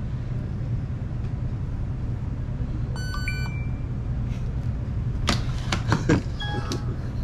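Electronic beeps from a counter device, a short stepped run of tones about three seconds in and another brief set near the end, over a steady low hum, with a few sharp knocks in between.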